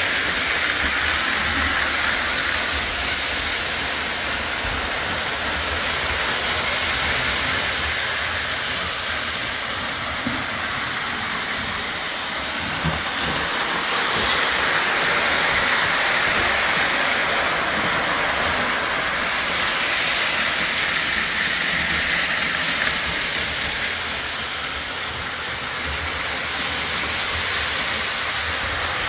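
Freight train rolling past, a steady rush of wheel and rail noise that swells and eases slowly.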